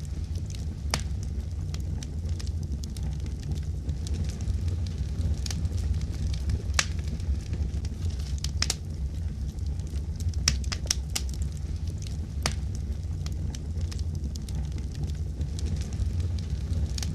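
Wood fire in a fireplace crackling: a steady low rumble of burning with sharp, irregular pops and snaps.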